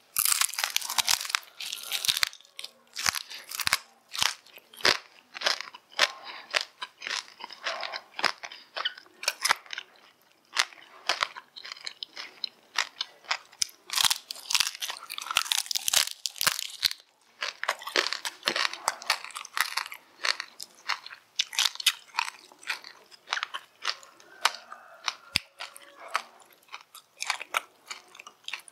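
Close-miked biting and chewing of crispy fried meat: a dense run of crackly crunches from the skin, with short lulls between mouthfuls.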